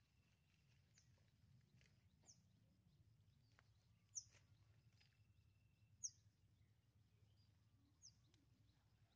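Near silence with faint outdoor ambience: a bird gives short, high chirps about every two seconds over a low, steady background hum.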